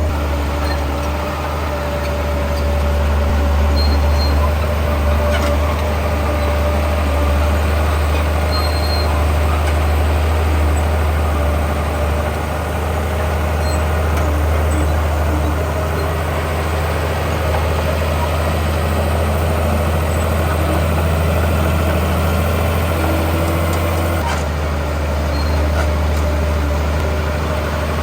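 Heavy diesel construction machinery running steadily with a deep, low rumble; the engine note shifts slightly about three-quarters of the way in.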